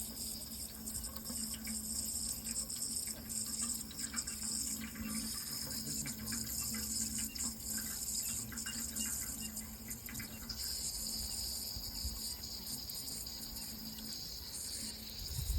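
Running water flowing steadily, with a constant low hum underneath.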